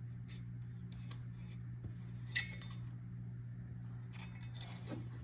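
Light clicks and taps of hard plastic and small metal parts being handled while the 3D printer's spool holder base plate is fitted. The sharpest click comes about two and a half seconds in and a few more follow near the end, over a steady low hum.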